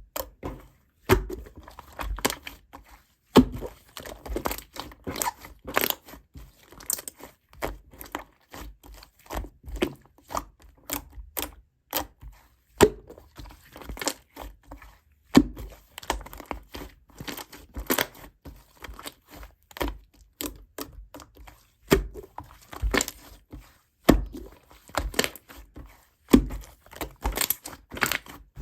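Crinkling, crackling and tearing handling sounds in quick, irregular bursts, like a crinkly plastic or tape object being squeezed and pulled apart, with occasional dull thunks.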